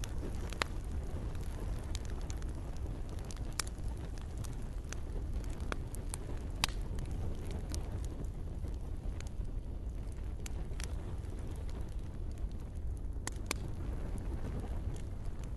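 Campfire crackling, with sharp pops now and then over a steady low rumble of burning and gentle rain.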